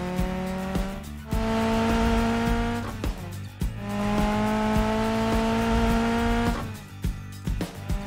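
Cartoon car engine sound effect revving up three times, each a long tone slowly rising in pitch and cutting off, over background music with a steady beat.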